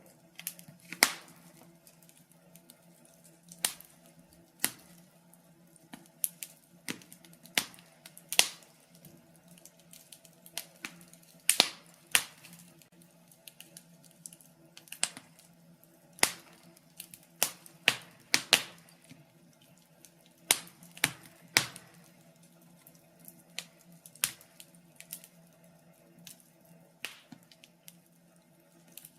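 Logs burning in a fireplace, crackling with irregular sharp pops and a few louder snaps, over a faint steady low hum.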